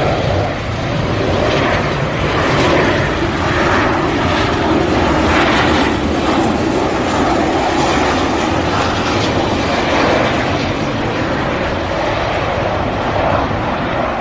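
Fixed-wing airplane engine noise, loud and steady.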